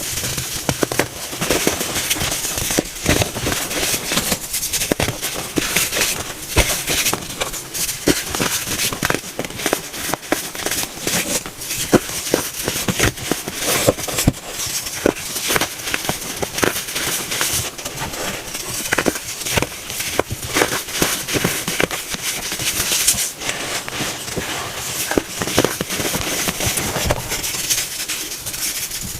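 Pressed baking soda cones being crushed, a dense run of crunches and crumbling crackles.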